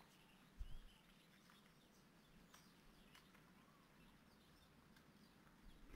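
Near silence: quiet reed-bed ambience with faint, distant bird chirps scattered through, and one soft low thump a little under a second in.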